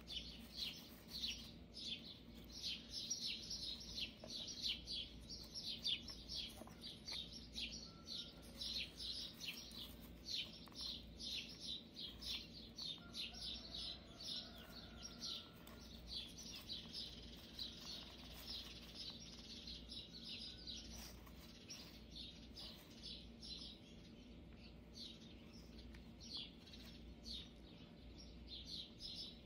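Small birds chirping rapidly and continuously in short high notes, thinning out in the last third.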